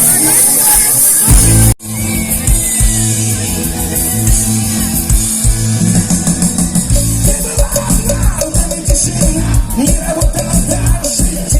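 Live rock band playing, loud, with drums and guitar. The sound cuts out for an instant just under two seconds in, then the music carries on a little quieter.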